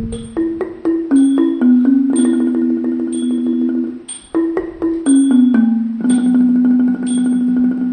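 Thai classical ensemble playing: struck notes of ranat xylophones and the khong wong yai gong circle over held melody notes that step up and down in pitch, with a short lull about four seconds in.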